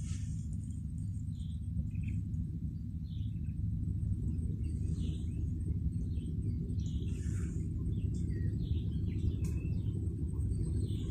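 Scattered short bird chirps and calls over a steady low rumble.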